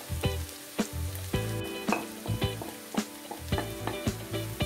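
Diced potato, aubergine and Spam sizzling in oil in a stainless steel pan while a wooden spatula stirs them, with irregular scrapes and knocks of the spatula against the pan.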